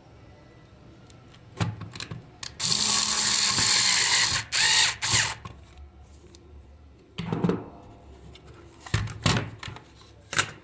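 A small power tool running in short bursts, the longest lasting about two seconds, with clicks and knocks of parts being handled in between.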